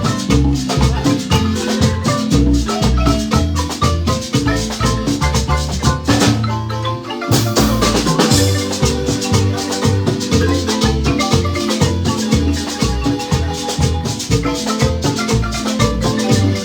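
Marimba band playing upbeat dance music: quick mallet runs on the marimba over a deep bass line, with shaken percussion. The beat breaks briefly about six seconds in, then picks up again.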